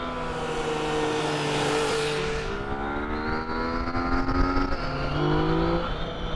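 Motorcycle engine running as the bike is ridden along a road, its pitch changing a couple of times, with a rushing noise over the first two seconds or so.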